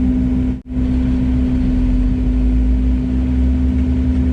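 Heavy diesel engine running steadily, heard close up as a constant drone with a strong low hum; the sound drops out abruptly for a split second under a second in, then carries on unchanged.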